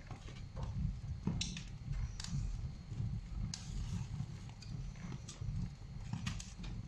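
Young kindling fire of dry twigs and feather sticks crackling in a fireplace as it starts to catch, with scattered sharp snaps over a low steady rumble.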